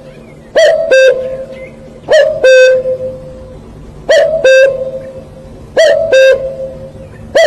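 A bird calling loudly in a regular rhythm: two short, clear, ringing notes close together, each opening with a quick slide and then holding one pitch, repeated about every one and a half to two seconds, four times over.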